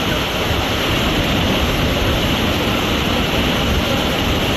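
Derebağ Waterfall rushing: a steady, loud roar of falling water with no change across the stretch.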